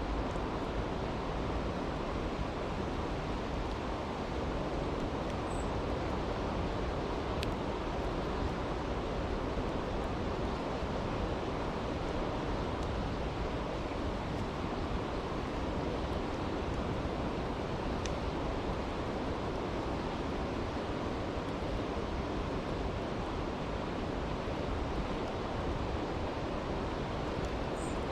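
Steady rushing of a brook, with a few faint crackles from a campfire.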